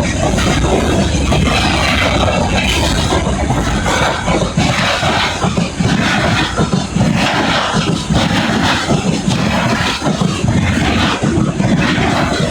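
Loaded freight train rolling past, a steady heavy rumble with a rhythmic clatter about once a second.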